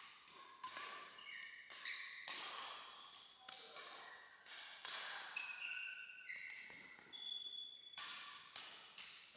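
Badminton rally: sharp racket-on-shuttlecock hits at irregular intervals, with short high squeaks of shoes on the court floor.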